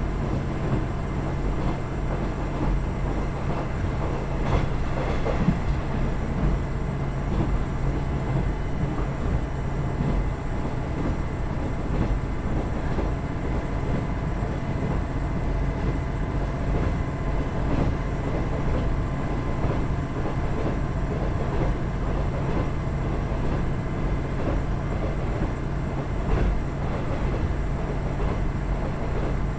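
KiHa 110-200 series diesel railcar running, its Cummins DMF14HZA diesel engine droning steadily under wheel and rail noise, with a few sharper knocks from the track.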